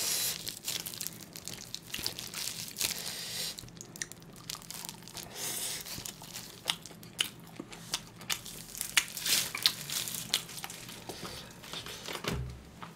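Close-miked eating of grilled pork ribs: irregular crunches, bites and chewing as meat is pulled off the bone, with crinkling from disposable plastic gloves.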